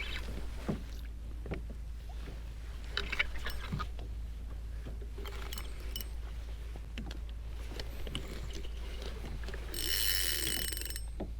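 Fishing reel being wound in on a hooked fish from a kayak, with water sloshing against the hull and scattered light knocks. A brief high buzz about ten seconds in.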